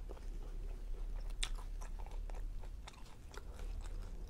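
Close-up mouth sounds of a person chewing a chicken fajita in a flour tortilla, with irregular small wet clicks and smacks.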